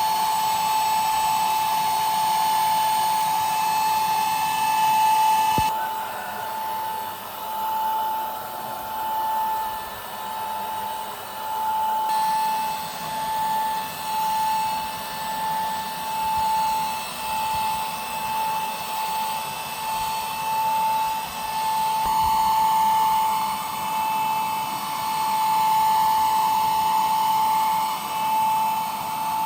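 A power tool running with a steady high-pitched whine, its loudness rising and falling about once a second through the middle.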